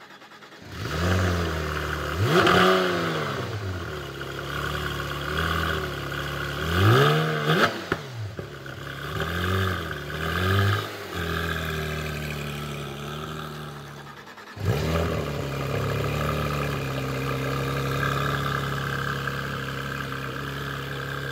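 Car engine with a loud exhaust catching just under a second in, then revved up and down in several blips. Just before the end of the second third it drops briefly, comes back suddenly, and settles into a steady idle.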